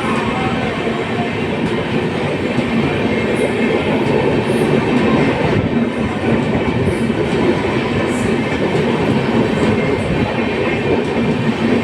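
Train moving on the rails: a steady, loud rumble of wheels and cars on the track.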